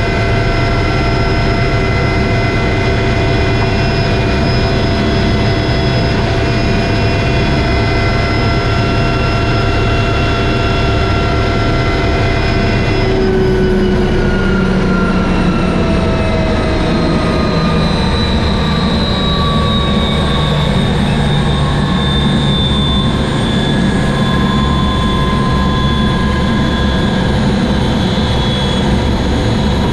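Helicopter running, heard from on board: a steady low rotor-and-engine rumble with several high whines. About halfway through, the whines begin to fall slowly in pitch while the loudness holds.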